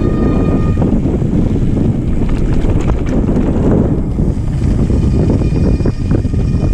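Wind rushing over the microphone of a mountain bike's on-board camera while riding, with rumble and a few short rattles from the tyres and bike.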